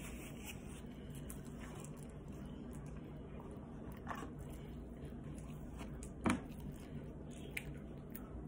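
Chewing from someone eating a chicken sandwich close to the microphone, with a few light clicks and one sharper knock about six seconds in, over a steady low hum.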